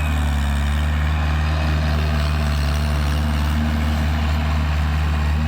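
Tractor diesel engine running steadily at an even speed, with no revving.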